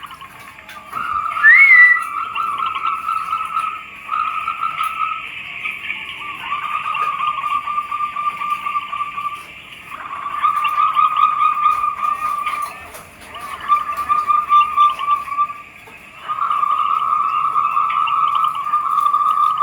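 Zebra doves (perkutut) calling: a short rising whistle about a second and a half in, then a string of long rapid cooing trills, each lasting two to three seconds with short breaks between. A fainter, higher chattering runs beneath.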